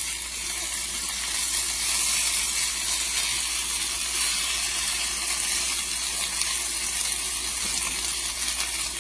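Sliced potatoes frying in a pan, giving a steady, fine crackling sizzle.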